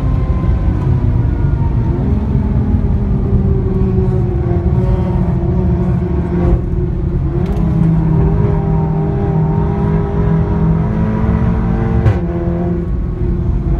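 Seat Leon Cupra's engine and loud exhaust heard from the car under way, pulling steadily with the note slowly rising and falling. There are short breaks in the note with a step in pitch about six and a half and twelve seconds in.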